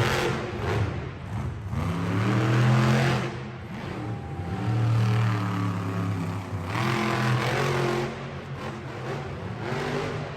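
Monster truck engine revving hard, its pitch rising and falling three times.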